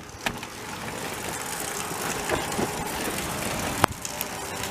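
Car engine idling steadily, with a sharp click a little under four seconds in.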